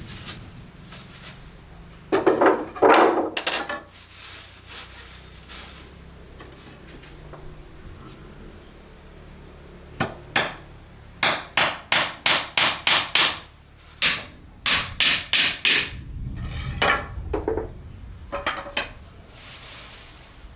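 Hammer striking wood in quick runs of blows, about three to four a second, like nails being driven while a wooden shelf is built.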